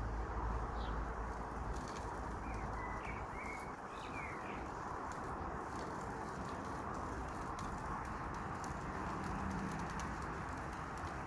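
Outdoor ambience with a few short bird chirps about two to four seconds in, over a steady hiss and scattered faint ticks.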